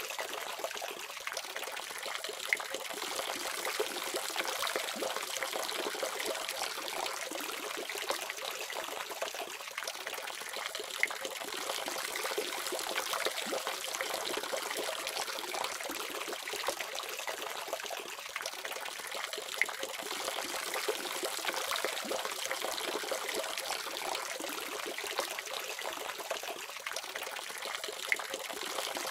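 Water running steadily from a faucet, splashing and trickling, with occasional brighter drips.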